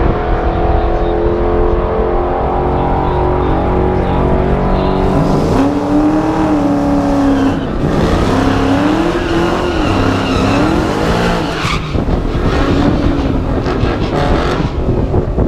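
Drag-race car engines running hard and revving, the pitch swinging up and down several times from about five to eleven seconds in.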